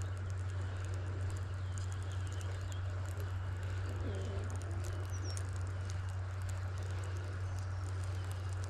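Faint bird chirps over a steady low hum.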